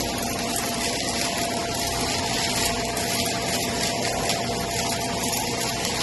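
Vacuum cleaner running steadily, a constant motor noise with a thin steady whine over it.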